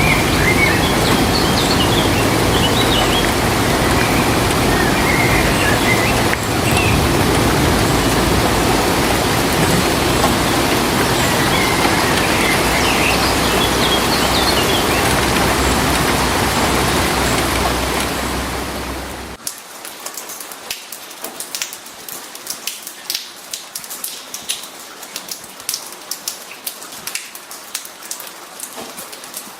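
A loud, dense, steady rush of water noise with a few birds chirping, which cuts off abruptly about two-thirds of the way through; after that, quieter rain falls with individual drops pattering and dripping distinctly.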